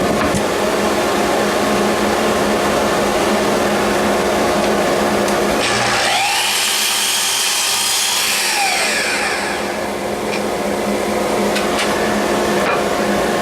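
Chop saw and dust extractor running steadily, with the saw cutting through wood for about three seconds near the middle, which brings a bright, high hiss.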